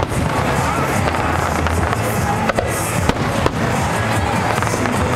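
Fireworks going off in a quick, irregular run of cracks and pops over a continuous wash of noise.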